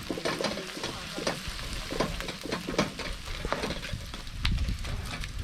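Food sizzling in hot oil in a pan while it is stirred, with irregular clicks and scrapes of the spoon against the pan.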